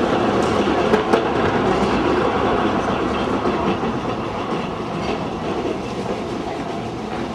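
Train running along the rails with a steady rumble and clatter of wheels on track, easing a little toward the end.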